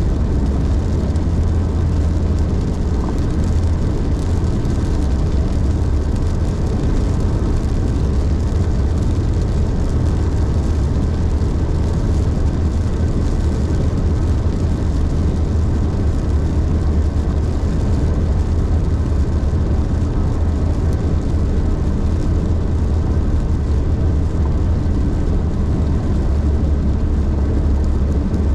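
A car driving steadily at highway speed: a constant low drone of road and engine noise, strongest in the deep bass, with a fainter hiss above it.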